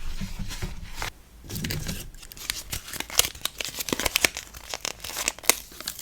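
Packing materials being torn and crinkled close to the microphone, with many short sharp clicks and taps.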